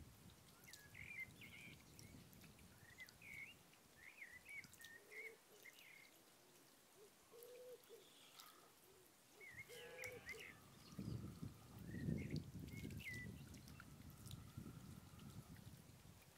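Faint birds calling: short chirping notes repeated on and off, with a few lower, longer notes in the middle. A low rumble swells about two-thirds of the way through.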